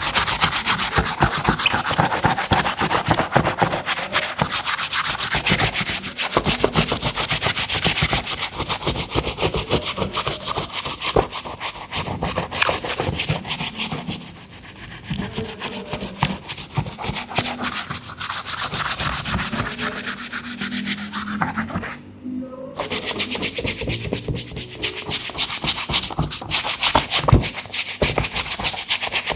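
A brush scrubbing a sneaker in rapid back-and-forth strokes. It eases off for a moment about halfway through and stops briefly near the three-quarter mark before scrubbing resumes.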